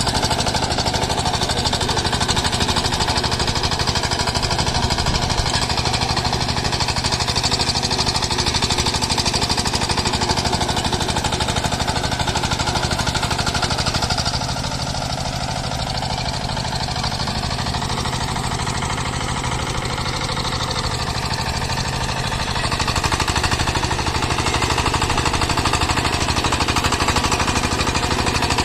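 6 hp single-cylinder diesel engine of a mini tractor rotavator running with a rapid, steady knocking beat. It runs a little quieter for several seconds about halfway through, then picks up again.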